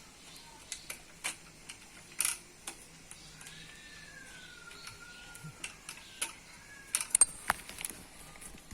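Irregular sharp clicks and knocks, the loudest a quick cluster near the end, over a faint wavering whistle-like tone that glides up and down in the background.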